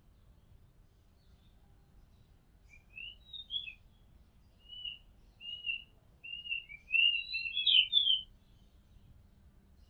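Oriental magpie-robin singing: a run of short whistled phrases that rise and fall, starting about three seconds in and building to a fuller warble near the end before stopping.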